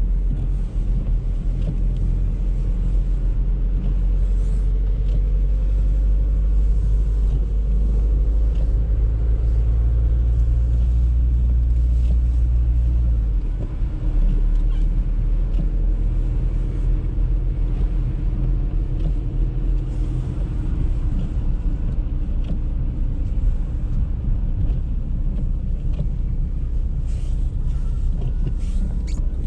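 Audi A3 driving: a steady low rumble of engine and road noise, whose deepest part eases about halfway through.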